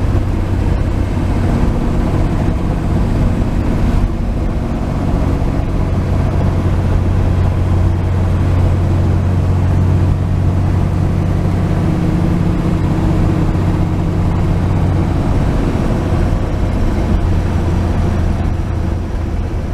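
1949 Chevrolet 3100 pickup truck's straight-six engine running steadily at a cruise on the road, with road noise.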